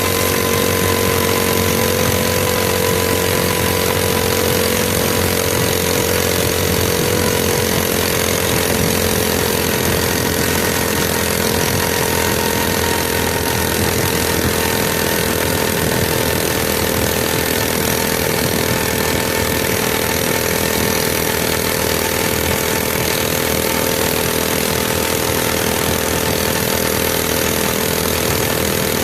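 Mini bike's small engine running at a steady, fairly high speed, easing off slightly over the stretch.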